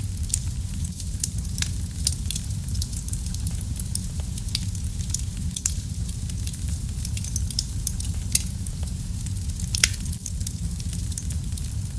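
Wood fire burning in a fireplace: a steady low rumble of flames with frequent sharp, irregular crackles and pops, two louder pops a little past the middle.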